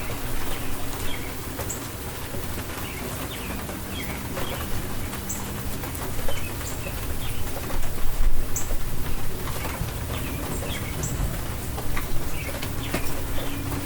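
Steady rain falling, with birds chirping briefly again and again through it. A louder low rumble swells about eight seconds in.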